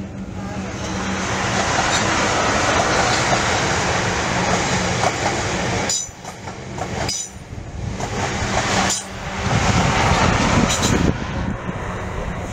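Passenger multiple-unit train passing close by: a steady rush of wheel and track noise over a low hum, loudest a couple of seconds in. The sound drops away abruptly about six seconds in and again about nine seconds in, then rises again.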